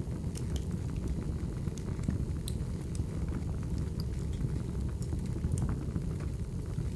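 Wood fire burning: a steady low rumble with scattered sharp crackles at irregular moments.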